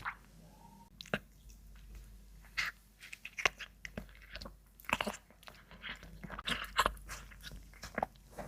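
A cat chewing and biting into a plate of meat, an irregular run of short, sharp bites and chews, busiest in the second half.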